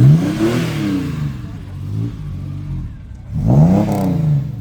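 Ford Capri V6 engine revved twice, the pitch rising and falling back each time, the second blip about three seconds after the first.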